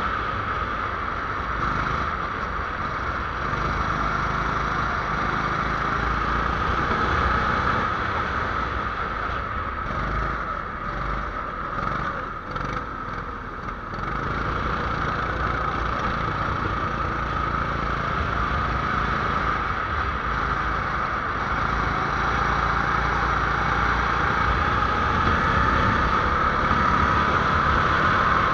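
A small 270cc engine running hard, heard from onboard over a steady rushing wind and road noise. The engine note eases off briefly about halfway through, then climbs steadily near the end as it accelerates.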